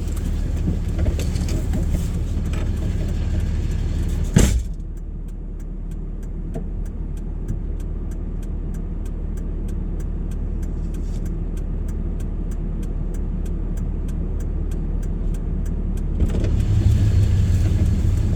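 Car's engine running under a steady low rumble; about four seconds in a sharp knock, after which the road hiss falls away and an indicator flasher ticks steadily, several ticks a second, for about eleven seconds. Near the end the road noise and a louder engine hum return as the car gets going again.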